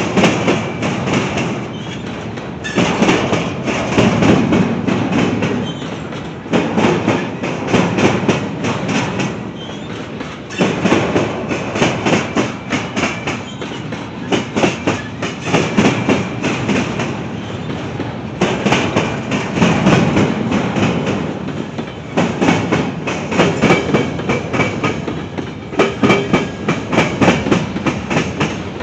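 Freight train rolling past, its cars' wheels clicking and clattering over the rail joints in a repeating rhythm that swells every few seconds as each truck goes by.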